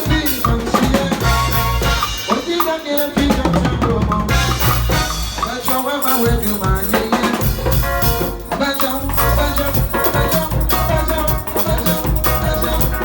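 Live band music driven by a drum kit, with bass drum, snare and rimshot hits under a melody line.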